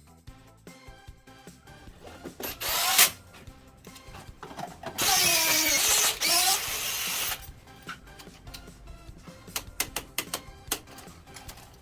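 A power drill running in two bursts: a short one about a quarter of the way in and a longer one of about two seconds near the middle, its pitch dipping and rising. Background music plays underneath.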